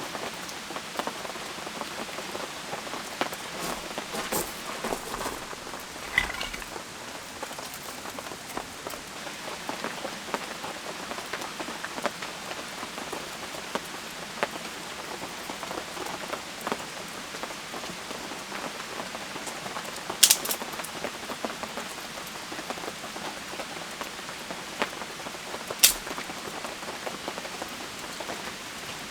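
Steady rain falling, with many individual drops ticking close by. Two louder, sharper taps stand out, about two-thirds of the way through and again near the end.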